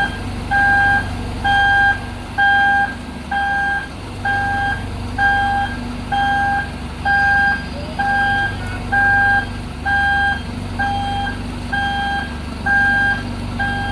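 Vehicle reversing alarm beeping steadily, about one beep a second, over the steady low running of a diesel engine.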